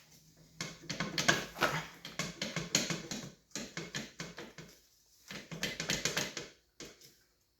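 Rapid, irregular rubbing and clicking of hand work on a dirt bike, in three spells, with a single knock near the end.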